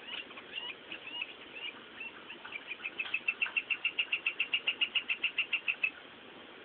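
A bird calling: scattered short, high chirps, then about two and a half seconds in a fast, even run of about eight high chirps a second that stops shortly before the end.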